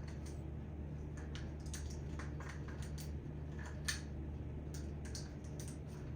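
Irregular light clicks and taps, the sharpest about four seconds in, over a steady low hum.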